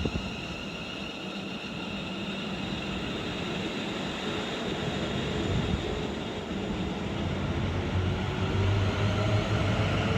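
A freight train led by a pair of Class 90 electric locomotives approaching, a steady rumble that grows gradually louder, with a low electric hum rising near the end.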